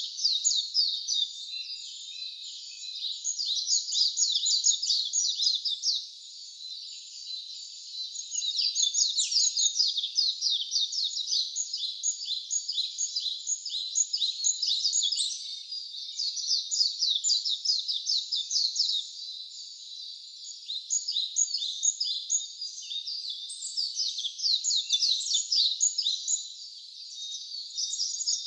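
Wild birds singing: a dense run of rapid, high chirps that swells and eases in phrases of a few seconds each.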